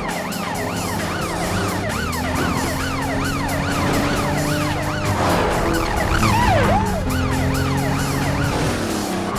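Police car sirens wailing in rapid rising-and-falling sweeps, about two a second, over a film score of held notes. About five seconds in, a louder rush of noise joins them for a second or so.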